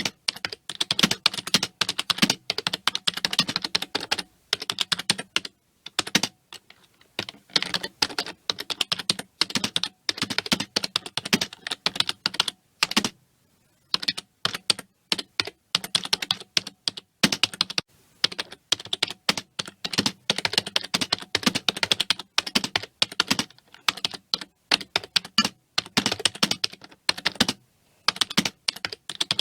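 Computer keyboard being typed on fast, rapid key clicks in continuous runs broken by brief pauses.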